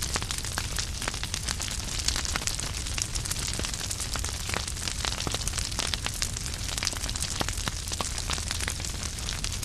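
Wood fire burning in a fireplace: logs crackling with many sharp, irregular pops over a steady low rumble of the flames.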